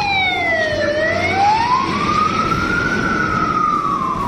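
Emergency vehicle siren wailing slowly up and down. It dips to its lowest pitch about a second in, climbs to a peak, then falls again toward the end, with a second siren tone gliding down briefly at the start, over steady background noise.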